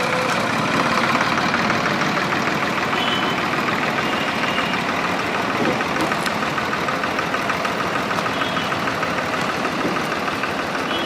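A truck's engine running steadily at idle.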